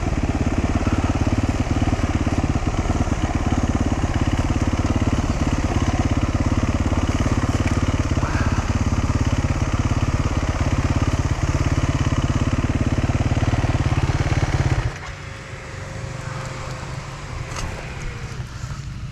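Dual-sport motorcycle engine running at low revs while picking down a rough trail, heard from the bike itself. About fifteen seconds in it drops to a much quieter, lower running sound, as at idle or closed throttle.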